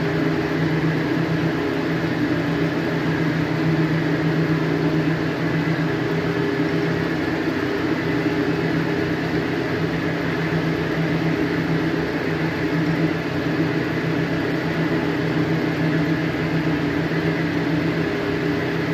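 Lathe running at a steady speed, its motor and gearing giving an even hum, while the cutting tool takes a taper turning cut on the workpiece.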